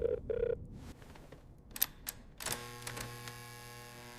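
A steady tone stops within the first half-second, a few sharp clicks follow, and then, about two and a half seconds in, a steady low hum starts and keeps going.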